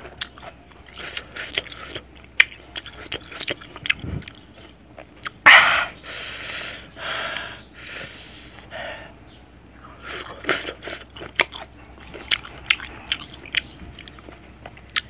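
Close-up crunching and chewing of raw ginger slices dressed with salt and chili, with many sharp clicking bites and mouth sounds. Around the middle come several loud hissing breaths.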